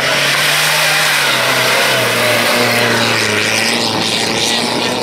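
Rally-raid 4x4's engine running hard as it passes and pulls away on a dirt track, over a steady hiss. Its pitch falls and dips briefly about two and a half seconds in, then holds lower.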